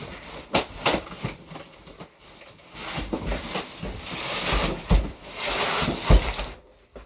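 Handling noise: a few sharp knocks, then a stretch of rustling with two low thumps about five and six seconds in.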